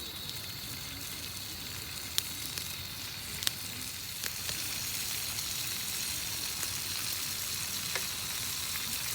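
Campfire of split firewood burning with a steady hiss and a few sharp crackling pops.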